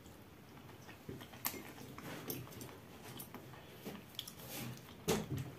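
A person quietly chewing a mouthful of salad, with a few faint short clicks and a louder sound near the end.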